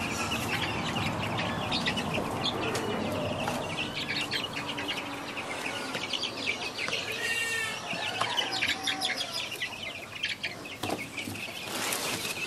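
A group of young chickens clucking and chirping, with many short calls overlapping throughout.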